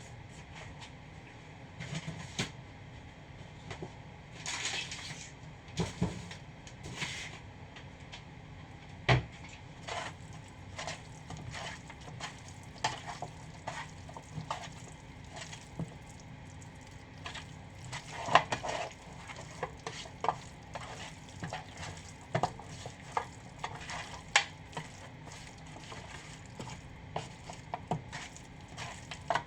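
Chicken wings being stirred in a frying pan: irregular clinks and scrapes of a utensil against the pan over a faint, steady sizzle.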